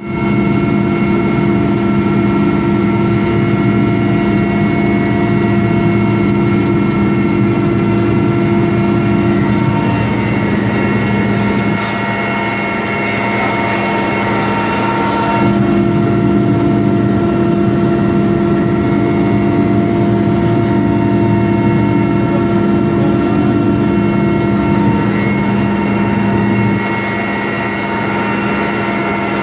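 Military helicopter in flight, heard from inside the cabin: a loud, steady drone of engines and rotor with several constant whining tones over it. The low hum weakens for a few seconds around the middle, then comes back.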